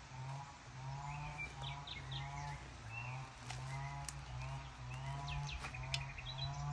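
Birds chirping, in short clusters about a second and a half in and again near the end, over a steady low hum and a mid-pitched warble that repeats about twice a second.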